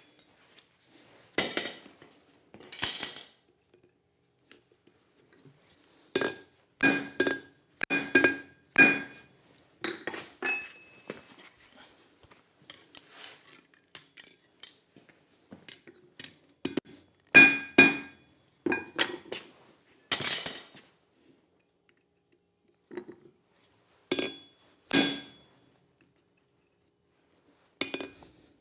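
Hand hammer striking a slot punch driven into hot steel flat bar on an anvil. Single blows and quick clusters come with pauses between them, and each blow rings with a metallic tone.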